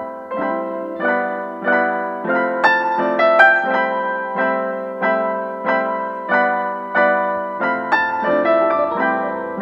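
Background piano music: gentle chords struck at a steady, unhurried pace, each note ringing and fading before the next.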